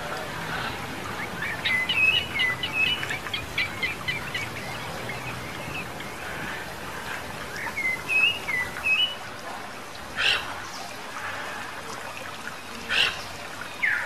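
Wild birds chirping over a steady forest hiss. A quick run of chirps comes in the first few seconds and a few more near the middle. Two short, louder sounds come late on.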